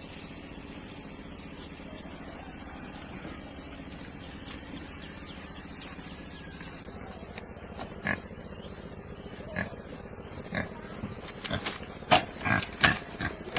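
Pigs giving short grunts and squeals over steady background noise, sparse at first and coming thick and loud near the end.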